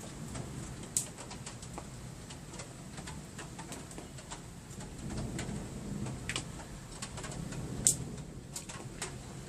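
Pigeon cooing in low, wavering calls, loudest past the middle, over scattered ticks of dripping rain, with two sharp clicks, one about a second in and one near the end.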